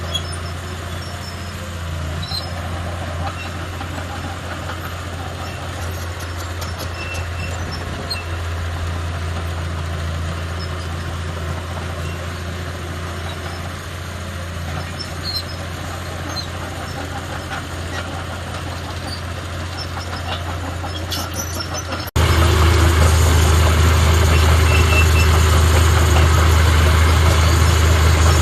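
Heavy diesel earthmoving machinery running steadily with a low engine hum. About three quarters of the way through it cuts abruptly to a louder, closer engine sound.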